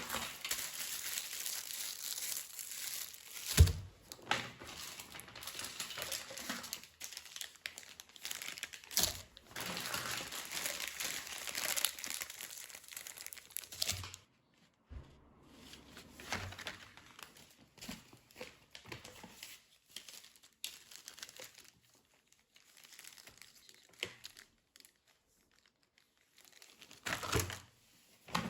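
Packaging crinkling and rustling as it is handled, in long stretches with a few sharp knocks and short pauses.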